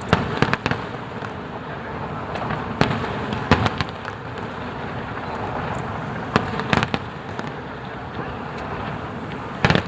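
Aerial fireworks shells bursting with sharp bangs: a cluster right at the start, more about three and a half seconds in and again near seven seconds, and one loud bang near the end, over a steady noisy rumble from the display.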